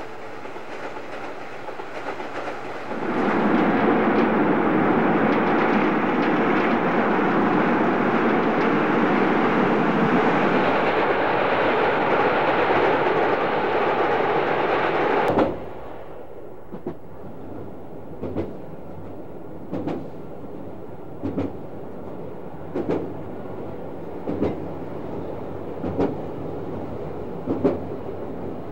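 A locomotive-hauled train of blue passenger coaches crossing a steel trestle railway viaduct: a loud steady rumble that starts about three seconds in and is cut off abruptly about halfway through. Then the quieter running of a train heard from its front as it crosses the viaduct, its wheels clacking over rail joints about every one and a half seconds.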